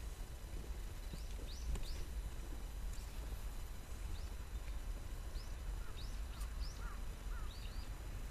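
Small birds chirping, about a dozen short, quick high calls scattered through, over a steady low rumble.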